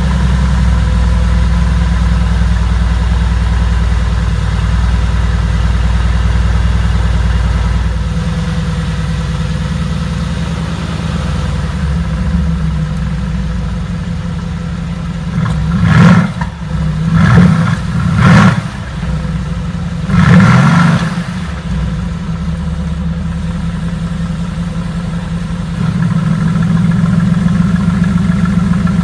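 Mercedes-AMG GT S 4.0-litre twin-turbo V8 exhaust just after a start, idling high at first and settling lower after about eight seconds. About sixteen seconds in come four short revs, the middle two close together, each dropping back to idle. The idle steps up a little near the end.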